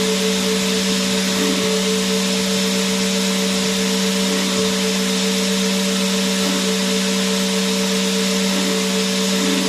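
Vacuum cleaner motor running continuously: a steady whooshing rush of air with a constant motor hum and whine that never changes pitch or level.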